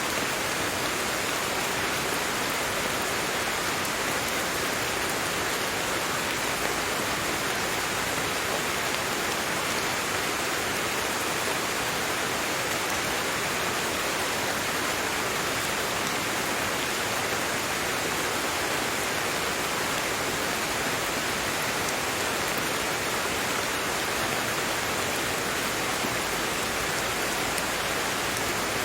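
Steady, even rain, a continuous hiss of falling drops with no separate drips or thunder.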